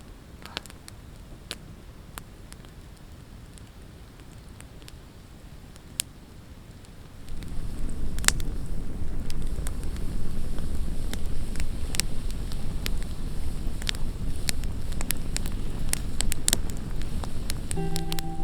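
Campfire crackling, sharp pops and snaps over a low hiss, with the pops coming thicker and a louder low rushing sound joining about seven seconds in.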